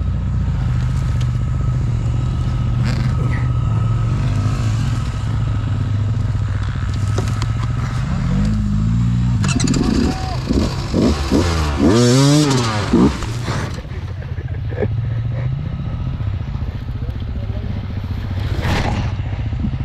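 Beta enduro motorcycle engine running steadily at idle, with a few blips of the throttle rising and falling in pitch about halfway through.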